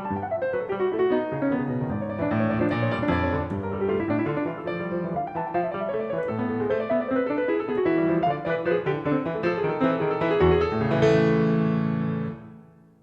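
Calm solo piano background music, ending on a full chord about eleven seconds in that fades out near the end.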